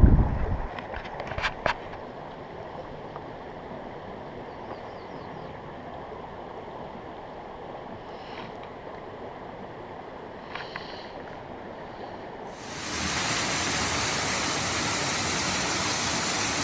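Mountain creek water rushing steadily, with a brief low wind buffet on the microphone at the start and a few faint clicks. About twelve and a half seconds in, the rush of water suddenly becomes much louder and hissier.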